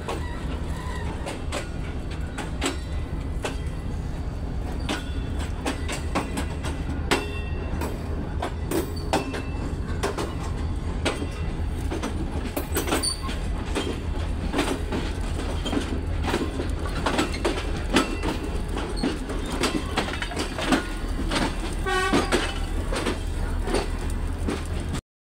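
Passenger train rolling out of a station, heard from an open coach door: a steady low rumble of the running gear, with wheels clicking and clattering over rail joints and points. There are brief squeals from the wheels about halfway through and again near the end. The sound cuts off abruptly just before the end.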